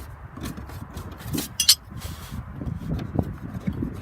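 Open-end wrenches clinking and scraping on a rear air-conditioning suction line fitting as it is worked loose. There are scattered knocks throughout, and one sharp metallic clink about a second and a half in.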